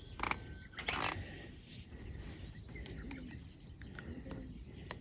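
Birds chirping faintly, with a few scattered sharp clicks and knocks, the loudest about a second in.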